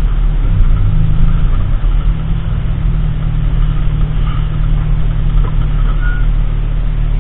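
Car running, with a steady, loud, low rumble of engine and road noise.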